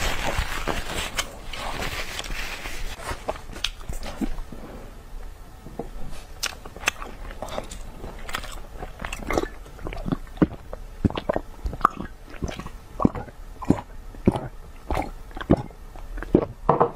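Close-miked eating sounds: irregular wet clicks and crunches of chewing and biting, about one or two a second. At the start, a soft rustle of a tissue wiped across the mouth.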